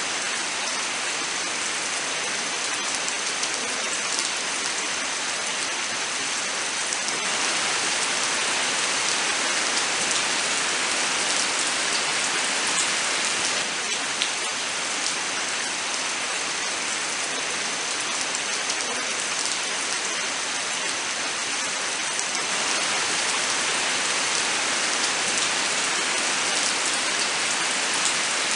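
Steady rain falling, a dense even hiss that swells slightly a few seconds in.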